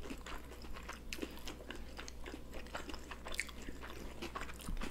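Faint, close-up chewing of sushi rolls by two people, with many small, scattered mouth clicks.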